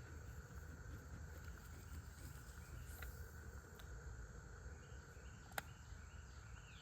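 Faint outdoor ambience: a steady insect drone with short repeated chirps, broken by a few small clicks, the sharpest about five and a half seconds in.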